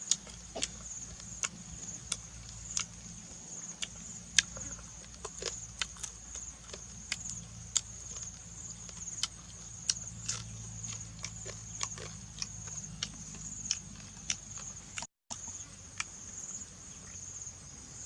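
Steady, high insect drone of crickets or cicadas, with frequent sharp clicks and cracks over it.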